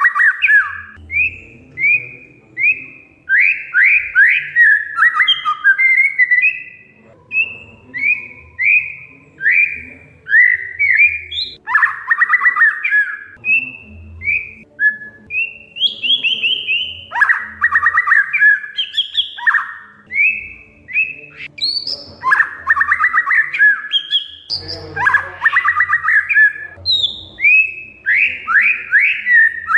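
Oriental magpie-robin (kacer) singing non-stop: a run of short, varied whistled phrases, broken up by several rapid rattling phrases.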